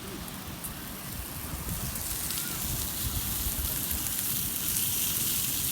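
Meat sizzling and crackling over an open fire, a hiss with fine pops that grows louder about two seconds in, over low wind rumble on the microphone.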